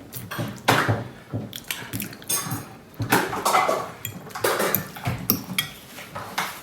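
Cutlery clinking and scraping against bowls and plates during a meal: a run of irregular light clinks and knocks.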